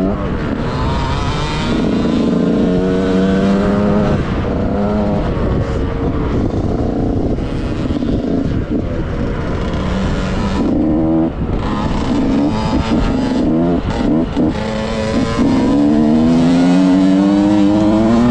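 2006 KTM SX 65's 65 cc two-stroke single-cylinder engine, revving up and dropping back over and over as the rider works the throttle and shifts gears around the motocross track.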